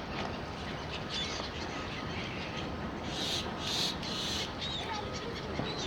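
Birds calling with a few short chirps over a steady rushing background, with two brief swells of hiss around three to four and a half seconds in.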